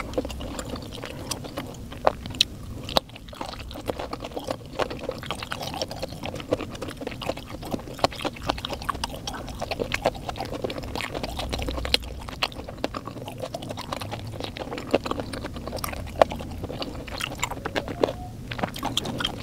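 A person chewing food close to a clip-on microphone, with many small, sharp wet clicks and smacks of the mouth throughout.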